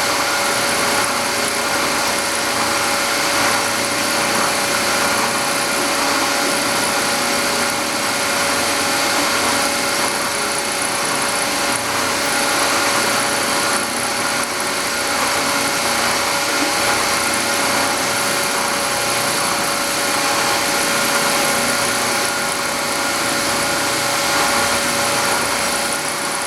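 Milling machine running steadily as it cuts a part: a continuous machine whine with a steady hiss and no breaks.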